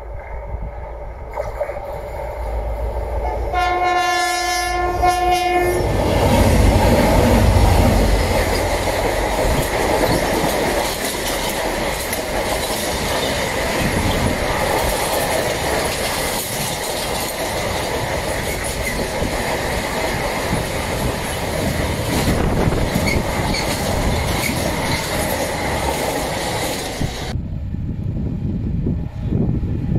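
A Renfe freight train led by a pair of class 333 diesel locomotives gives one steady horn blast a few seconds in, then passes close by at speed: a loud, continuous rumble and rattle of container wagons on the rails. The sound cuts off abruptly near the end.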